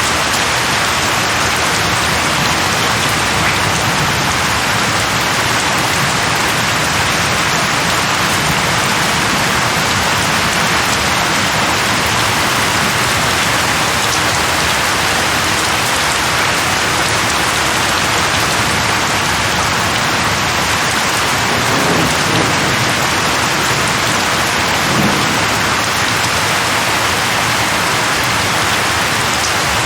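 Steady rain falling on tree leaves, an even hiss throughout, with two brief low rumbles in the second half.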